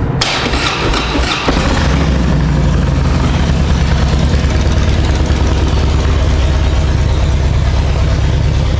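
2007 Harley-Davidson Softail Deuce's 96-cubic-inch V-twin starting and settling into a steady idle through shotgun exhaust pipes with Vance & Hines slip-on mufflers. The engine catches in the first second or so and then runs evenly.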